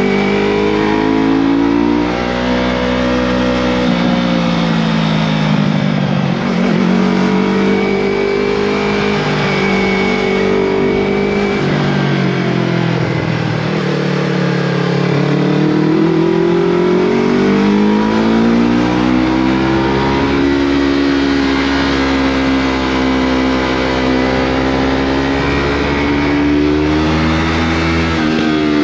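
Yamaha MT-03 motorcycle engine running through a Scorpion full-system exhaust while under way, its pitch dropping and climbing again several times as the revs change.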